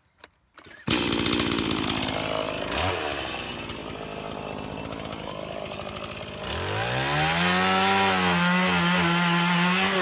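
Two-stroke chainsaw running, then opened up about six and a half seconds in, its pitch rising and holding steady at high revs.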